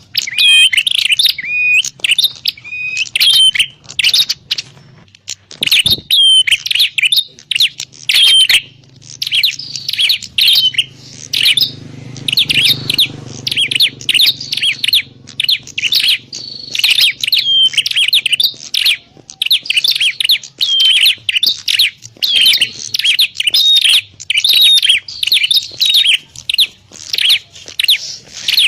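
Prenjak klawu calling over and over: rapid, high chirps and short trills in quick bursts with brief pauses, the kind of recording played as a lure to draw the bird in.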